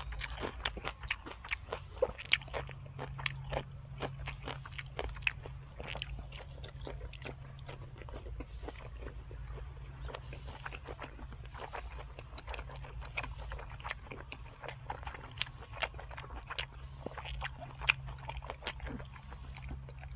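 A person chewing and crunching food close to the microphone, with many short crisp crunches, busiest in the first few seconds and again near the end. A faint steady low hum runs underneath.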